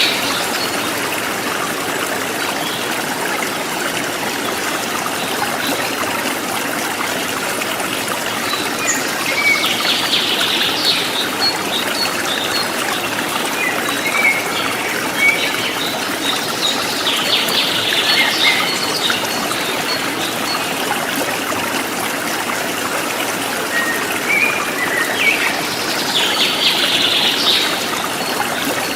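River water flowing steadily over stones as a continuous rushing trickle. A short, high chirping call comes in about three times, roughly eight seconds apart.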